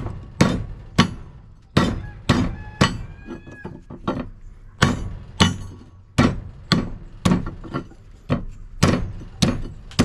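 Hammer blows on a dishwasher motor, knocking the cut copper windings out of the stator: a run of about fifteen sharp strikes, roughly two a second, with a short pause about four seconds in.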